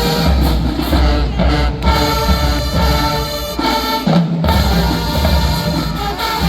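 Marching band playing, with heavy bass drums and percussion under the horns, and a brief break in the drums about four seconds in.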